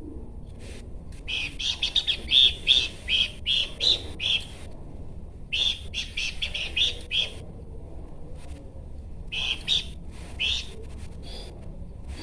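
Horsfield's babbler (pelanduk semak) singing: three bouts of quick, high chirping notes with short pauses between them, over a steady low hum.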